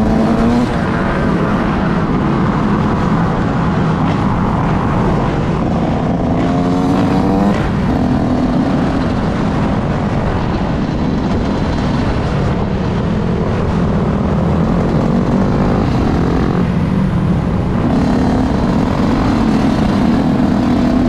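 Motorcycle engines running loudly together, one revving up with a rising pitch about six to seven seconds in, and others changing pitch as they accelerate and ease off.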